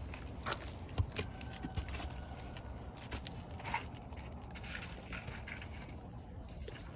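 Scattered light knocks, scrapes and crinkling from hands and tools working asphalt roof shingles, the sharpest knock about a second in.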